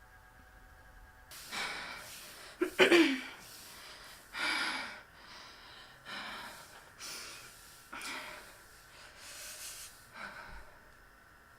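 A person breathing hard in a series of sharp breaths roughly a second apart, with the loudest one, a voiced gasp, about three seconds in.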